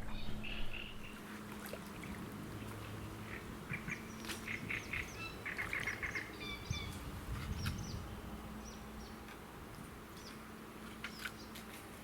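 Birds calling in quick series of short chirping notes, busiest in the middle and thinning out towards the end.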